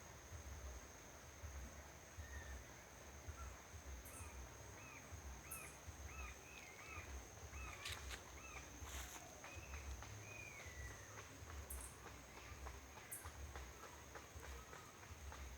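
Faint outdoor ambience: a bird gives a run of short, quick chirps for several seconds over a steady high-pitched insect buzz and a low rumble.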